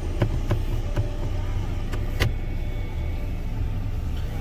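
Car engine idling, heard from inside the cabin as a steady low rumble, with several sharp clicks, the loudest about two seconds in.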